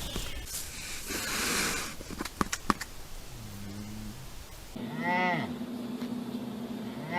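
American black bear vocalizing: breathy huffing with a few sharp clicks, then a low moan. After that come pitched calls that rise and fall, one a little past halfway and another starting at the very end.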